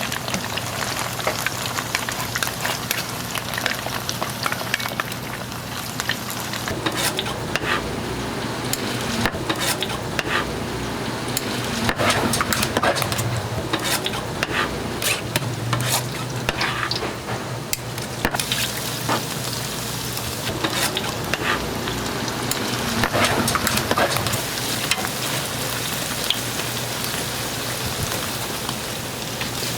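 Fish cakes deep-frying in hot oil: continuous sizzling and crackling with many sharp pops, over a steady low hum.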